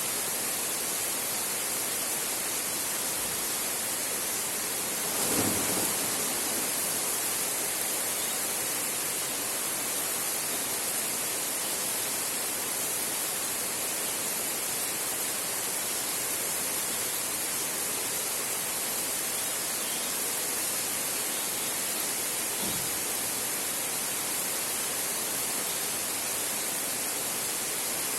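Heavy rain drumming steadily on a metal (tin) roof, an even hiss. A short rumble of thunder comes about five seconds in, and a fainter one later on.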